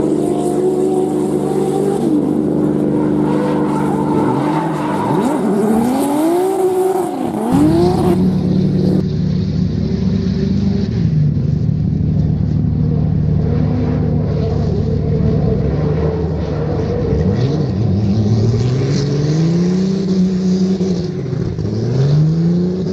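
Drift car engine revving hard and falling again in repeated sweeps as the car slides, over a steady hum. The sound changes abruptly about a third of the way in.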